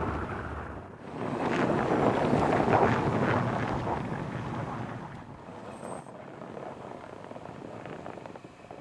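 Storm wind gusting and rushing across the microphone, strongest in the first few seconds, then dying down.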